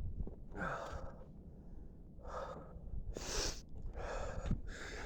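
A rider breathing hard while cycling, four audible breaths spread across the moment, over a steady low rumble.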